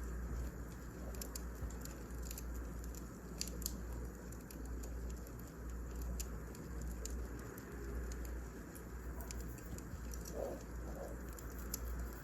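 Wood fire burning, with scattered crackles and pops over a steady low rumble.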